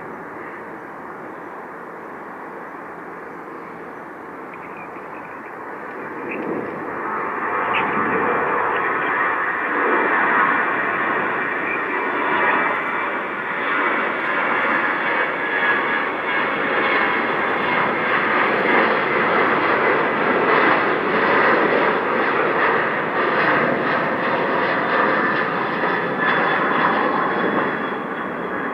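Jet airliner's engines, a rushing noise with a high whine that swells about six seconds in and stays loud and steady.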